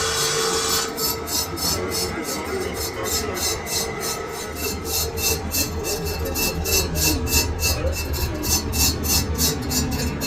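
Metal being worked on a lathe: a rasping scrape that runs steadily for about a second and then turns into an even pulse of about four to five strokes a second, over the low hum of the lathe.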